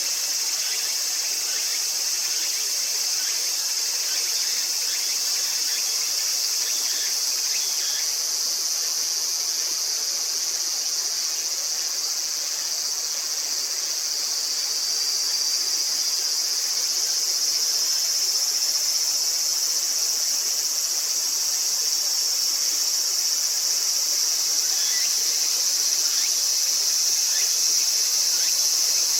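A continuous, high-pitched drone of summer insects, steady throughout and growing slightly louder about halfway through.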